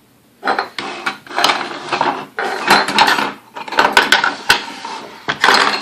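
Clicks, clatter and scraping from handling the metal parts of a vintage Sunbeam Mixmaster Model 12 stand mixer during disassembly: a string of sharp knocks among rubbing sounds, likely the spring-clip connectors being worked off the brush holders.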